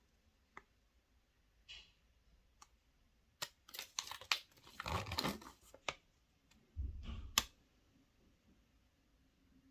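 Foil wrapper of a chocolate surprise egg crinkling and tearing as it is unwrapped, in a dense stretch near the middle, with scattered light clicks and taps around it and a dull knock followed by a sharp click a couple of seconds later.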